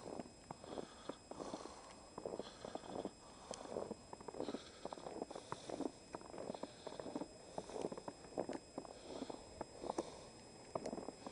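Footsteps crunching through fresh snow at a steady walking pace.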